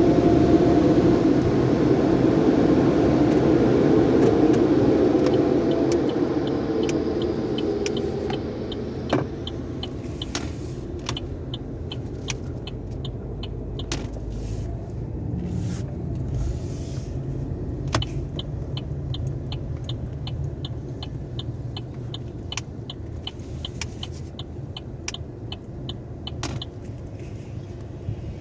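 Car wash tunnel machinery: a loud rushing blow that fades away over the first eight seconds, leaving a low rumble with a steady ticking about two to three times a second and a few sharp clicks.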